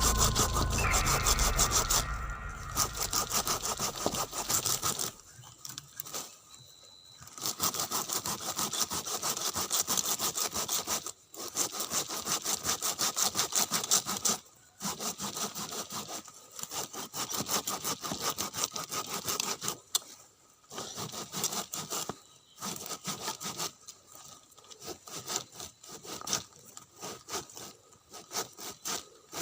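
Hand saw cutting through a bamboo stem: bouts of rapid back-and-forth strokes, stopping briefly every few seconds.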